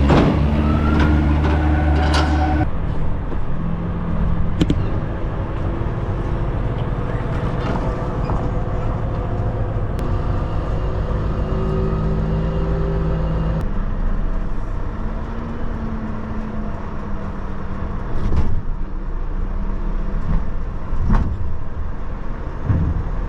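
Diesel engine of an HGV tractor unit running under way with a walking-floor trailer. Its note shifts twice, about three seconds in and again around the middle, and a few short knocks come through.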